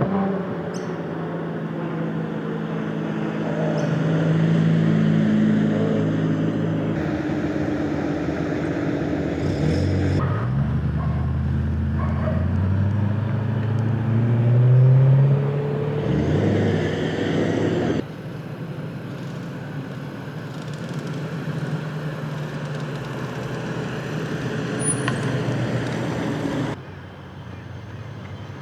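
V8 performance car engines running as the cars drive slowly in, heard in a series of cut-together clips that change abruptly several times. About 12 to 15 seconds in, one engine rises in pitch as it accelerates, the loudest moment.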